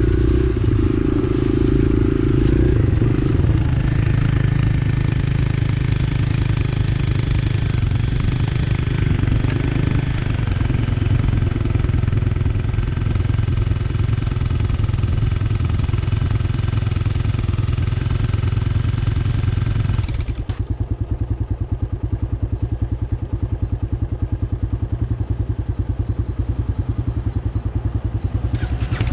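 Dirt bike engine running under way, with wind and riding noise over the engine note. About two-thirds of the way through it drops abruptly to a quieter, evenly pulsing engine sound.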